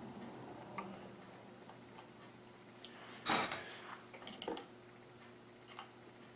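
Small clicks and handling noises from a Bernina Chandler 217 industrial sewing machine as the needle is brought down by hand to pick up the bobbin thread, with a brief rustle about three seconds in and a few quick clicks just after four seconds, over a faint steady hum.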